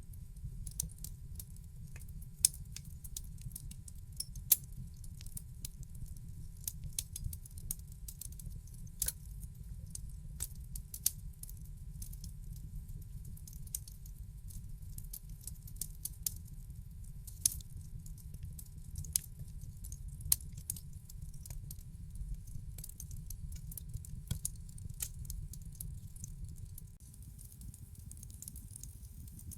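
Wood fire in a fireplace crackling: irregular sharp pops and snaps over a steady low rumble of the flames, with a few louder pops scattered through.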